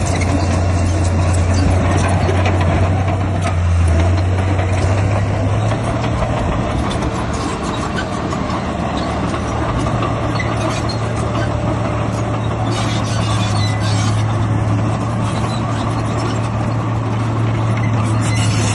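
Heavy diesel engine of earthmoving machinery running steadily with a deep drone; its note steps up slightly about six seconds in.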